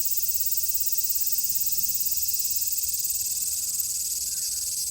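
Chorus of cicadas in a Japanese summer, a dense steady high-pitched buzz with a fine rapid pulse.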